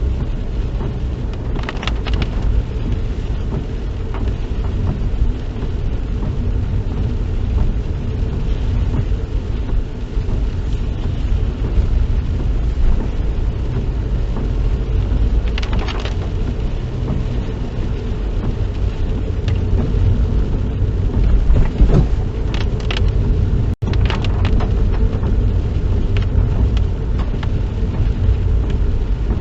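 Road noise inside a car's cabin while driving on wet roads in the rain: a steady low rumble of engine and tyres, with a few brief swishes.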